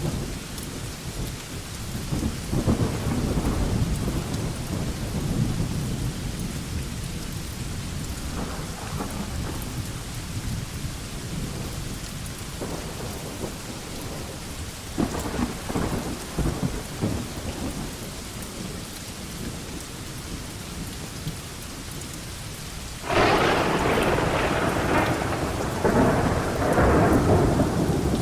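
Steady rain falling on a veranda with deep rolls of thunder. A much louder, closer thunder peal breaks in suddenly near the end.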